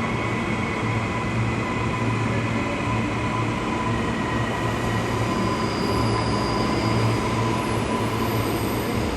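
Electric suburban train moving along the platform: a steady rumble with a low hum and thin, high wheel squeal over it.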